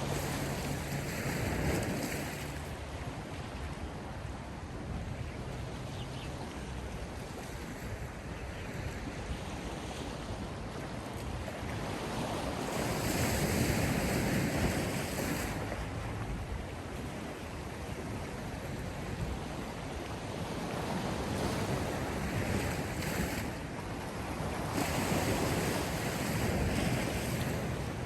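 Sea waves breaking and washing in, the surf noise swelling louder several times as each wave comes in.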